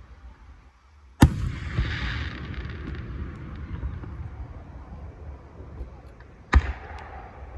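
Two fireworks shells bursting with sharp, loud bangs about five seconds apart, the first trailed by a few seconds of rumble and crackle.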